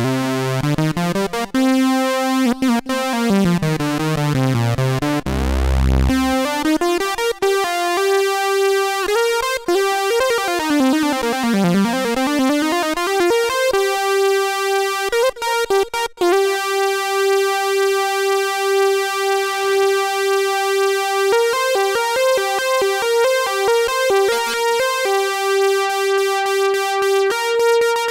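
Korg Prologue analog synthesizer playing a bright custom patch rich in overtones: fast stepped runs that sweep down and back up in pitch, then one long held note, then quick repeated notes near the end.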